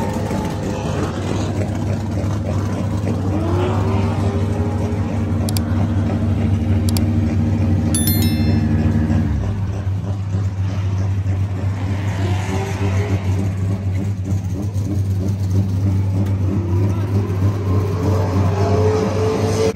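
Nissan S14 drift car's engine idling with a steady low drone, blipped up in brief rising revs a few times.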